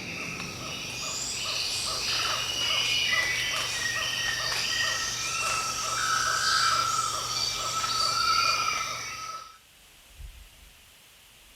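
Field recording of a dense natural chorus: many birds singing over one another with steady insect buzzing. It cuts off abruptly about nine and a half seconds in, leaving a faint background with one short sound.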